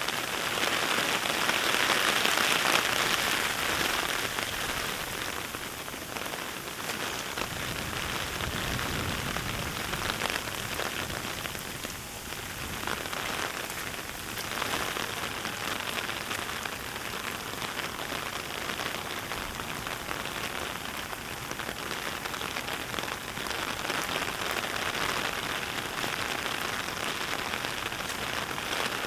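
Heavy rain falling, a steady hiss that is loudest in the first few seconds.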